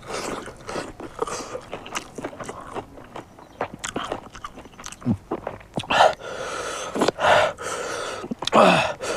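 Close-up mouth sounds of someone chewing and biting smoked pork, with small crunches and wet smacks. From about six seconds in come several sharp hissing breaths drawn and blown through the mouth about a second apart: a reaction to the heat of king chilli.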